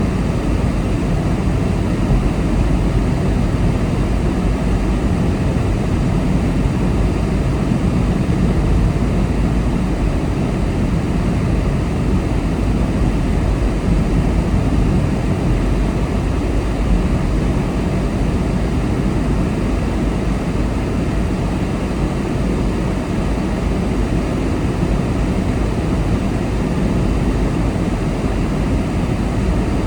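Steady road noise from a car being driven: a constant low rumble of tyres and engine, with no marked changes.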